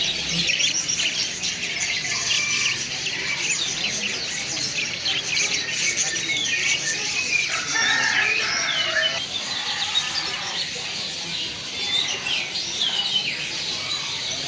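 Many caged songbirds chirping and singing over one another in a dense, continuous chorus of short high chirps and whistles.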